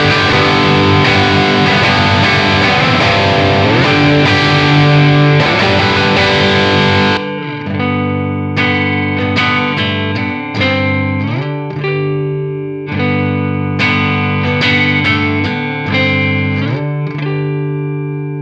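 Electric guitar with PAF-style humbucker pickups (a Gibson Les Paul) played through an amp: a heavily overdriven passage for about seven seconds, then an abrupt change to a cleaner tone with separate picked chords ringing out and decaying.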